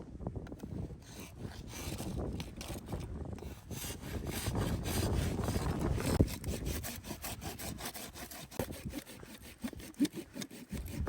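Wood being sawn by hand: a run of repeated rasping strokes, loudest around the middle and lighter towards the end.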